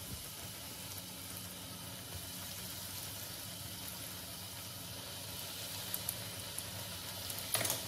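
Triangles of white bread sizzling as they fry in hot oil in a nonstick frying pan. A few short knocks near the end as more slices are put in and moved.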